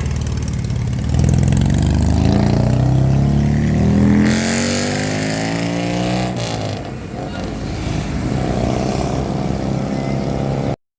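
A vehicle engine accelerating: its pitch climbs steadily for about five seconds, drops as it changes gear, then runs steady.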